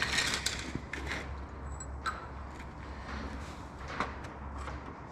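Scattered light metallic clicks and knocks of tools and engine parts being handled during a valve removal, over a steady low hum.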